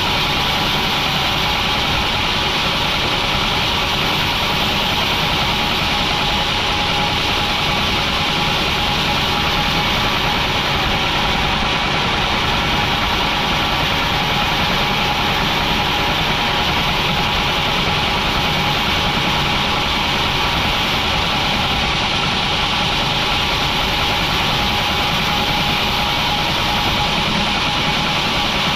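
Steady, unbroken drone of industrial sawmill machinery running.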